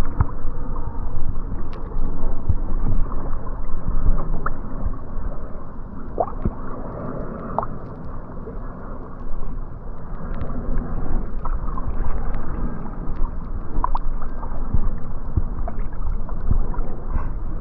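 Lake water sloshing and gurgling against a kayak, over a low rumble, with scattered short gurgles throughout.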